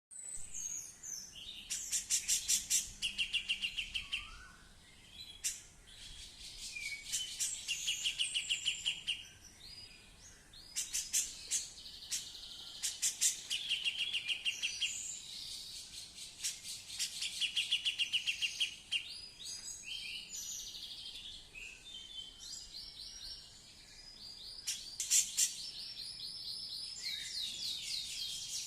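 Female cucak jenggot, an Alophoixus bulbul, singing in repeated bouts of fast, rattling chattering notes, each bout lasting a second or two with short pauses between.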